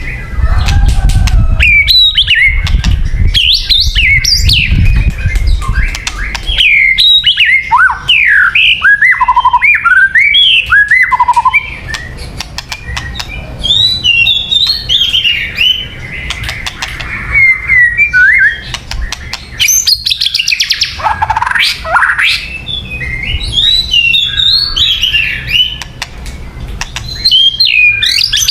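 White-rumped shama singing a long, varied song of looping whistled phrases that swoop up and down, with many sharp clicks between them.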